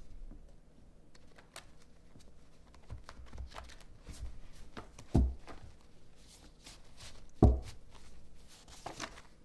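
Tarot cards being handled and shuffled: soft rustling and light clicks of card on card, with two sharp taps, about five seconds in and again about two seconds later, the second the loudest.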